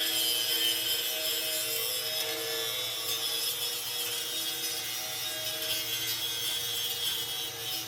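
A machine running steadily, a dense grinding hiss with a steady high whine and a few lower hums, of the kind a power tool or woodworking machine makes while cutting.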